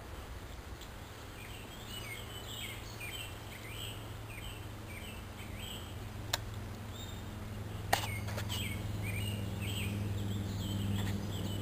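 Birds chirping in short calls repeated about every half second. Under them a low steady hum grows louder about two thirds of the way in, and two sharp clicks come about six and eight seconds in.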